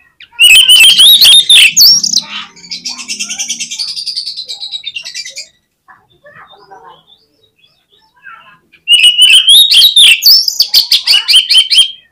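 Oriental magpie-robin (kacer) singing loudly in two bursts of fast, gliding whistled phrases. The first burst runs into a buzzy rattle, and the second starts after a pause of about three seconds.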